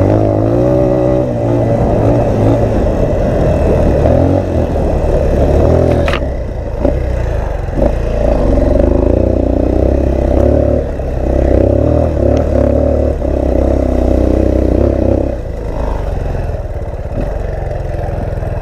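Motorcycle engine revving up and down as the bike is ridden off-road, with a few knocks and clatters from the rough ground and wind buffeting the microphone.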